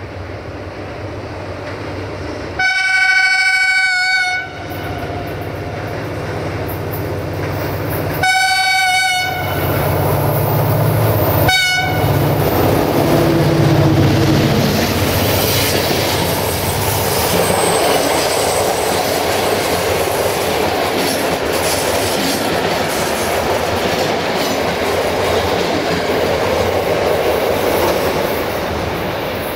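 Diesel locomotive horn sounding two blasts, the first about two seconds long and the second shorter, as the train approaches. The loco-hauled passenger train then passes close by, with a long, loud rumble of coaches and wheels clattering over the rail joints.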